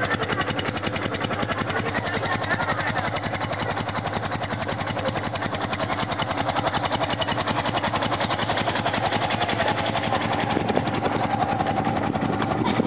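1965 BMW R50/2's air-cooled flat-twin engine idling steadily with an even beat, shortly after a cold start, growing slightly louder near the end.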